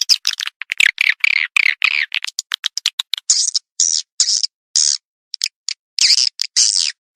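Recorded swiftlet calls played as a lure to draw swiftlets to a nesting house: a rapid run of short high chirps and clicks, then, from about three seconds in, longer twittering calls of about half a second each with short silences between.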